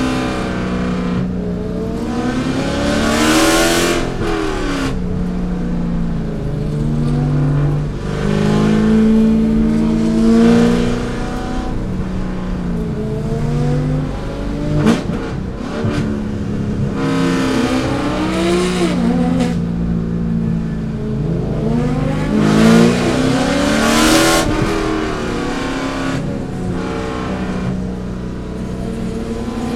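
Chevrolet C5 Corvette's V8 at racing speed, repeatedly revving up through the gears, with sharp drops in pitch at each shift and when lifting for corners, between steadier stretches.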